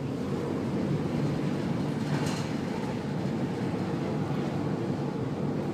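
Steady low rumble of a cargo ship at sea, with a faint brief hiss about two seconds in.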